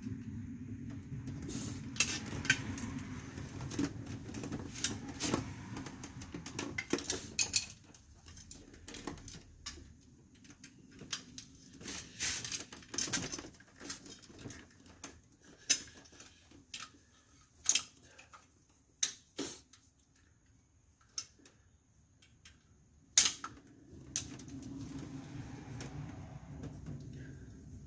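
Irregular metallic clinks and taps of hand tools against drum brake parts (springs, clips, shoes) while a car's rear brake shoes are being removed. A low hum sits under the clinks at the start and returns near the end.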